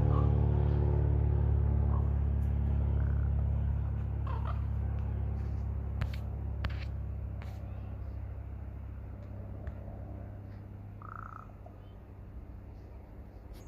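A few short, faint calls from a corvid, the odd sounds it is making, over a low steady rumble that fades away through the first ten seconds or so. Two sharp clicks come about six seconds in.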